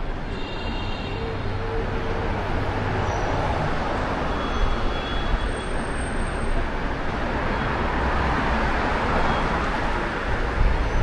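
Steady road traffic on a busy city street, with a heavy low wind rumble on the microphone from the gale.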